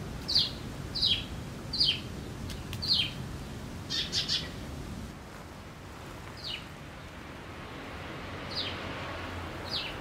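A bird calling outdoors: short, high, sharply down-slurred calls about a second apart, with a quick run of three about four seconds in, then fewer and more widely spaced.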